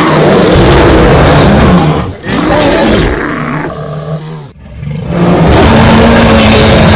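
Animated-film bear roar sound effects: three loud, growling roars in a row, with short breaks about two seconds in and about four and a half seconds in.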